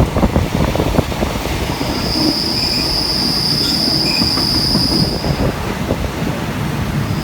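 Passenger train running on the rails with a dense rumbling rattle. From about two seconds in to about five and a half seconds, a steady high-pitched wheel squeal rises over it.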